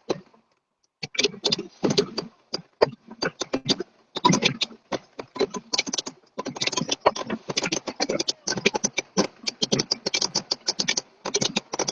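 Fireworks crackling: a dense, rapid run of sharp pops and crackles, starting about a second in and coming in uneven clusters.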